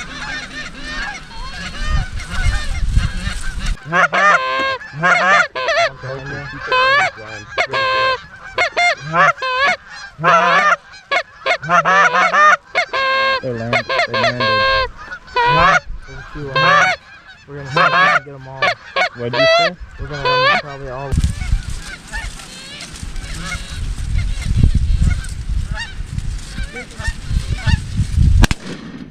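A flock of geese honking, many short calls overlapping in quick succession. The calling stops about three-quarters of the way through, leaving a low rumble.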